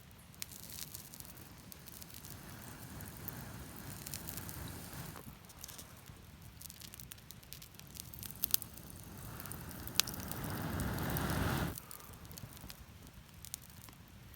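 Campfire crackling with scattered sharp pops. There are two longer rushing swells: one in the first few seconds and a louder one about two-thirds of the way through. Each cuts off suddenly.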